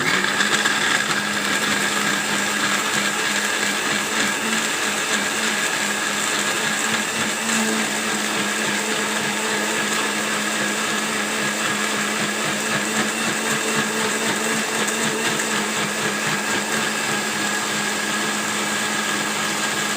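Electric kitchen blender switched on and running steadily at full speed, a continuous motor whine over a low hum.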